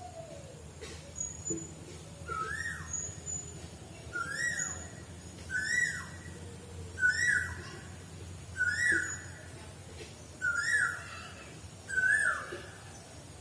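A bird calling over and over: seven short calls, each jumping up and then sliding down, about one every second and a half.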